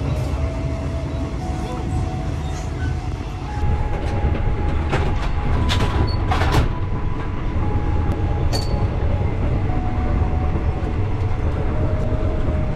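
Sleeper train carriage in motion, heard from inside: a steady low rumble of the running train. A few sharp knocks and clatters come about five to seven seconds in, and one more shortly after.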